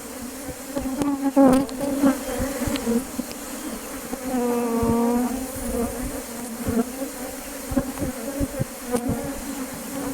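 Many honeybees buzzing, a steady drone whose pitch wavers up and down, with a few scattered light knocks.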